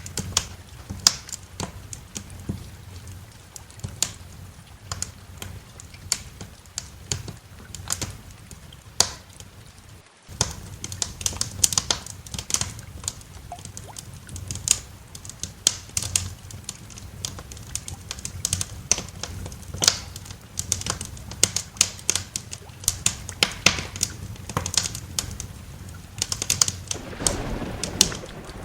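Wood fire crackling in a fireplace: many irregular sharp pops and snaps over a low steady rumble, with a brief dropout about ten seconds in.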